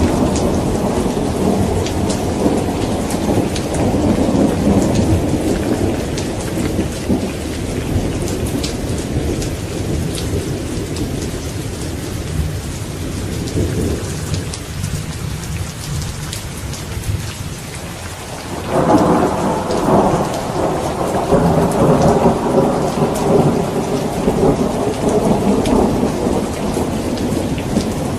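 Steady rain with fine patter of drops, under rolling thunder. One rumble fades away over the first two-thirds, then a new peal breaks in suddenly and rolls on to the end.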